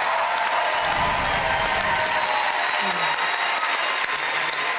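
Large audience applauding steadily, a dense patter of many hands clapping at once.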